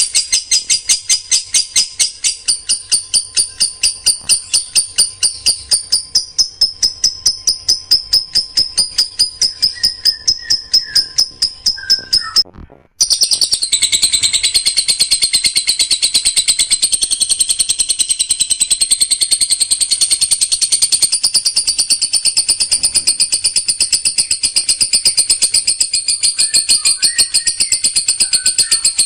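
Recorded songbird song made up of rapid-fire 'shots' (tembakan rapat): high notes repeated quickly and evenly, several a second. There is a short break about halfway through, after which the notes run on more densely.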